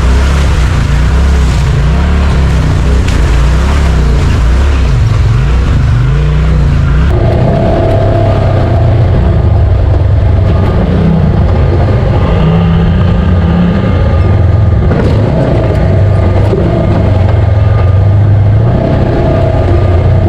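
Side-by-side UTV engine running under way on a rough trail, loud and continuous; its note changes abruptly about seven seconds in.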